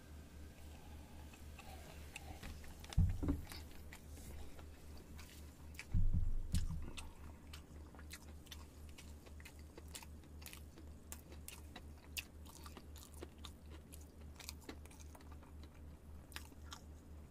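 Close-miked chewing of crispy fried chicken, with crunches and wet mouth clicks, and sips from a glass near the end. Two dull thumps stand out about three and six seconds in, over a steady low hum.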